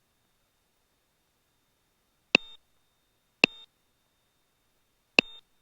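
Three short electronic beeps in the cockpit intercom audio, each a sharp click followed by a brief buzzy tone. They come at uneven spacing, about two, three and a half, and five seconds in. A faint steady high whine sits under them, and no engine noise is heard.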